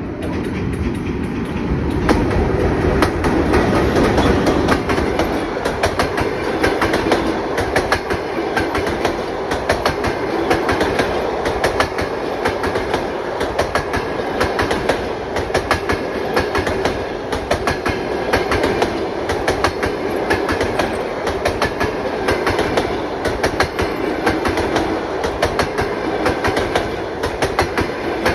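Passenger train passing at speed, its wheels knocking in a fast, continuous clatter over the rail joints, loudest a few seconds in.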